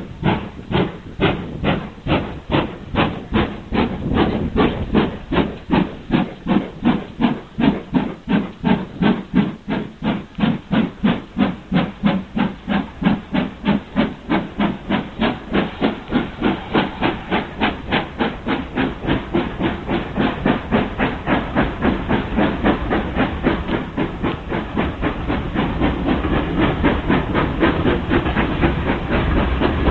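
Steam locomotive exhaust chuffing in a steady rhythm that speeds up from about two or three beats a second to about four, as the engine works hard getting a train under way. Over the last few seconds the beats blur into louder, steadier running noise.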